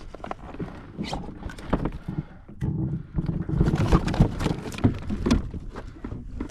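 Irregular knocks, taps and rattles from a freshly caught fish and a multi-hook sabiki rig being handled and unhooked on a kayak, over a low rumble.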